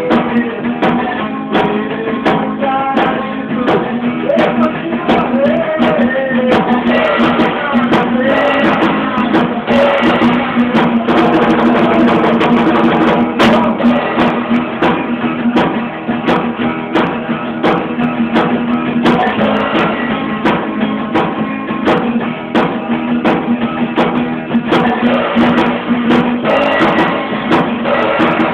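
A small amateur band playing a song live, with guitar over drums keeping a steady beat, recorded on a phone with the treble cut off.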